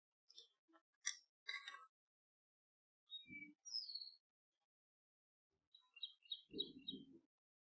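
Faint wild birdsong: scattered short high chirps, a single falling whistle, and a quick run of five or so repeated chirps about six seconds in. A few soft low sounds come in between, around three seconds in and again near the end.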